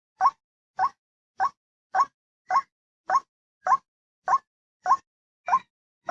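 White-breasted waterhen's call note repeated on a loop as a trapping lure: about ten short rising notes, evenly spaced a little over half a second apart.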